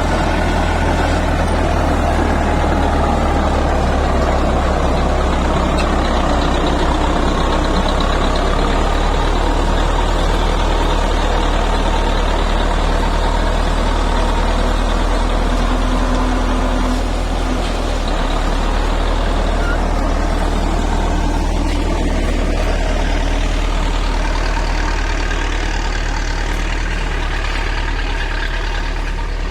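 Heavy diesel engine of a bulldozer running steadily under load, with a deep, constant low rumble and a brief slight drop in level about halfway through.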